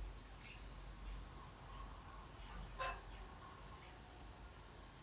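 Faint, steady high-pitched chirping of insects, pulsing several times a second, with one faint click near the middle.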